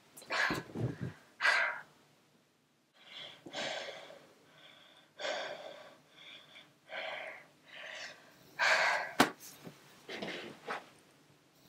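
A teenage girl crying, sobbing in gasping breaths. Near the start there are a few soft thuds as pillows and stuffed toys are thrown onto the bed.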